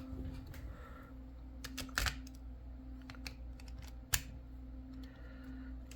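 Scattered light clicks and taps of a model locomotive being handled and set down onto a coupler height gauge's track, the sharpest about two and four seconds in, over a faint steady hum.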